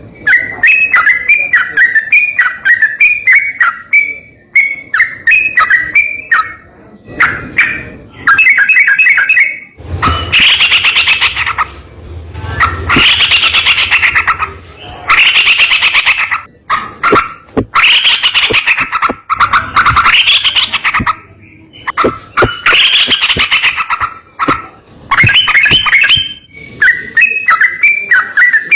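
Yellow-vented bulbul (trucukan) singing: quick chattering chirp phrases, then from about a third of the way in a series of loud, harsh rolling bursts of song about a second and a half long with short breaks between, easing back to quick chirps near the end.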